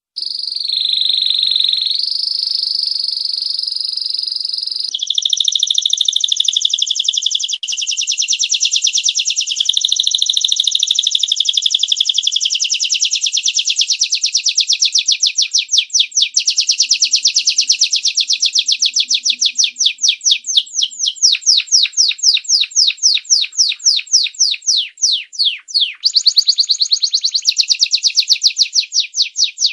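Domestic canary singing a long, unbroken high-pitched song that starts suddenly: held, buzzy trills first, then, about halfway through, a fast run of repeated notes that slows into about seven distinct chips a second before switching to a new trill near the end.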